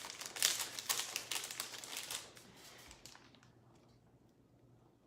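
Craft supplies being rummaged through by hand: rapid clicking and crinkling for about two seconds, then much quieter.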